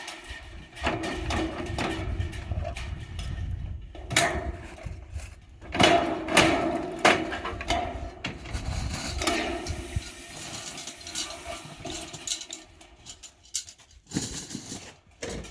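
Irregular metallic clattering and knocking from gutter installation work, with several sharp impacts and brief steady tones in between.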